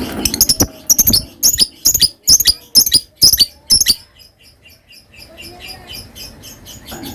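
Lovebird calling in a series of shrill, sharp chirps, loud and at about two notes a second for roughly four seconds, then a short lull and softer, quicker chirping.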